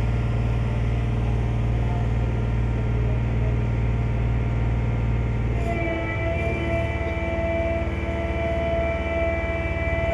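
Ferry's engine running steadily with a low drone. About six seconds in the note changes: the low drone drops away and steady higher tones take over.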